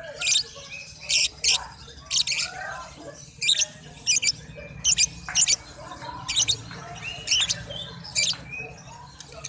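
Young lovebird singing in a long run of short, shrill, very high chirps, one every half-second to second, with softer twittering between them.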